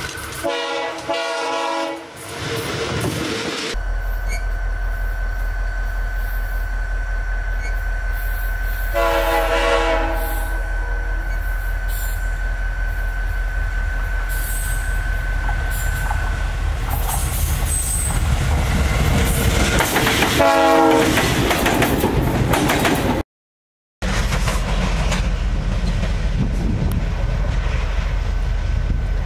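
Diesel freight locomotives approaching with a steady, loud engine rumble, the multi-note air horn sounding three times: at the start, about nine seconds in, and about twenty seconds in. The sound drops out briefly about 23 seconds in, then the rumble of another locomotive continues.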